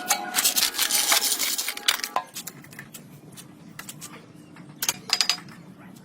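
Workshop clatter of metal parts and hand tools: a dense run of clinks and scrapes for about two seconds, then a quieter stretch and a short burst of clinks about five seconds in.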